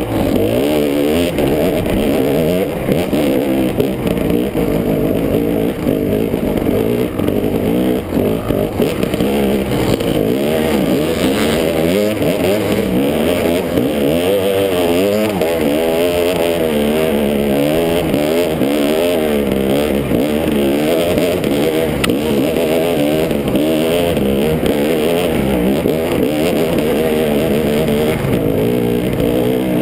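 Dirt bike engine running hard under load, its revs rising and falling constantly as the rider works the throttle and gears over rough trail, heard up close from the bike itself.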